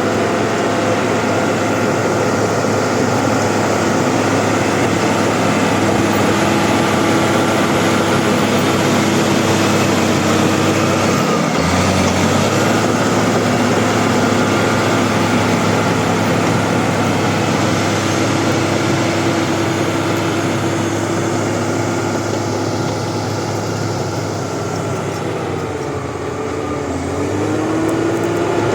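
Bulldozer's diesel engine running steadily under working load, its pitch dipping briefly about halfway through and sagging then climbing back near the end.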